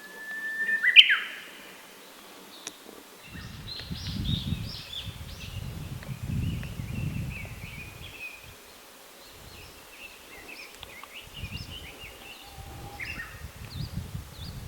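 Wild birds calling. About a second in comes a loud whistled note that jumps up and then drops sharply, followed by a long run of high twittering and chirping, over patches of low rumbling.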